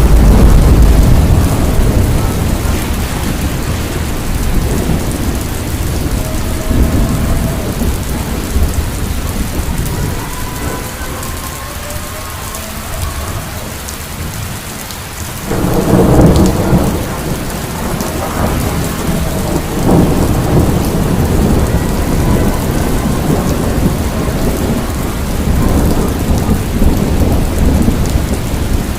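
Hurricane Milton's storm: heavy rain and gusting wind with a deep rumble, surging suddenly louder just past halfway.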